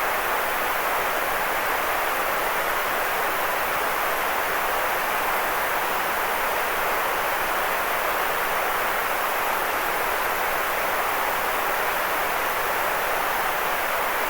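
Continuous white noise: a steady, even hiss with no change in level, fuller in the middle of the range than in the bass.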